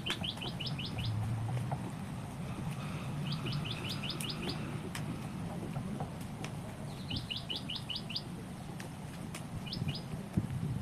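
A small songbird calling in short, rapid runs of about six quick upward-sweeping notes, repeated every three to four seconds.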